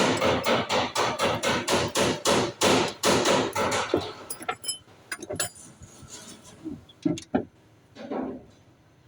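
Rapid, even hammer blows, about four a second, that stop about four seconds in, followed by a few scattered clicks and knocks.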